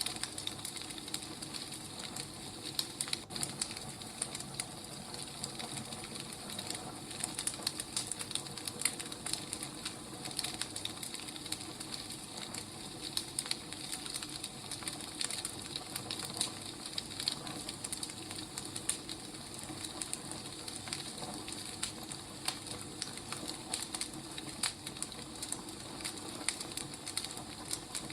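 Wood fire crackling, with many small irregular pops and snaps over a steady hiss.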